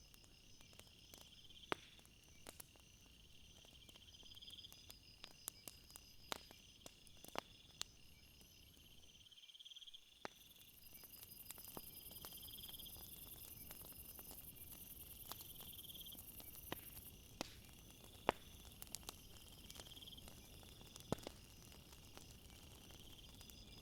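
Crickets chirping in repeated pulsed trills over a faint background. Scattered sharp clicks and pops sound throughout, and the sound briefly drops out about nine and a half seconds in.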